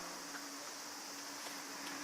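Faint room tone: a steady hiss with a low, even hum and a few soft ticks.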